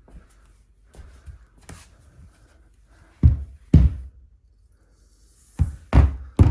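A few light clicks and knocks, then five heavy, short thumps: two about three seconds in and three close together near the end.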